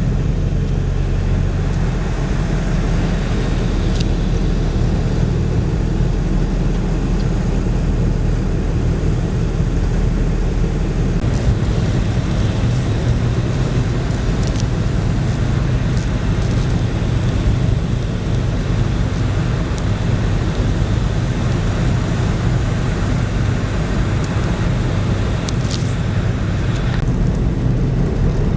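Car driving on a highway: steady road and engine rumble, with a few faint clicks now and then.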